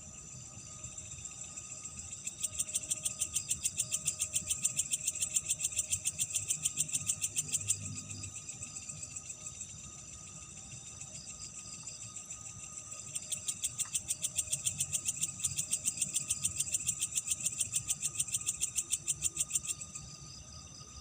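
Night insects calling: a loud, fast pulsing trill comes in two bouts of about five seconds each, over a steady high insect drone and a faint low rumble.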